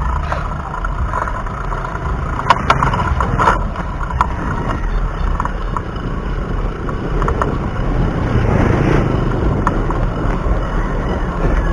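Wind rumble on a chest-mounted action camera's microphone while riding a bicycle, with a few sharp clicks and knocks from the bike over the road surface between about two and four seconds in.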